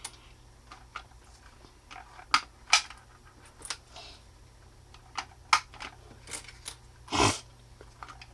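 Small plastic toy pieces being handled, with scattered sharp clicks and taps and one louder knock about seven seconds in.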